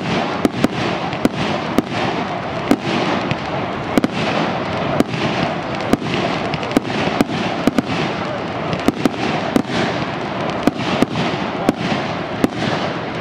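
Fireworks going off: an irregular run of sharp bangs and pops, roughly two a second, over a continuous din.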